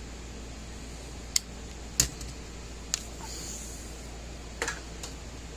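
A handful of sharp, separate clicks and snaps from hand tools working on an electrical cable, the kind made by cutters or strippers closing on wire and tools being set down on a bench.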